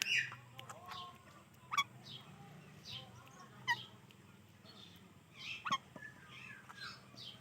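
Indian ringneck and Alexandrine parakeets calling: scattered short chirps, with sharp, loud squawks about two, four and six seconds in, over a faint steady low hum.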